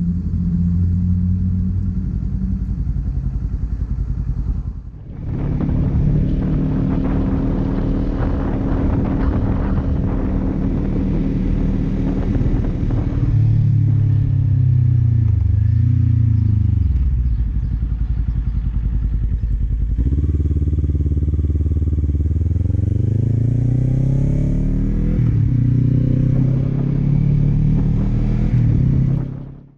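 2019 Kawasaki Z400 parallel-twin engine with an Akrapovič exhaust, heard from the bike while riding. The engine note falls and then climbs through several rising sweeps as the bike accelerates up through the gears, with a brief break about five seconds in.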